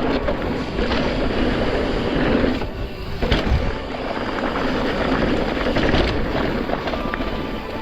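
Wind rushing over the microphone and mountain-bike tyres rolling on a dirt trail during a fast run down a jump line, with a brief lull about three seconds in.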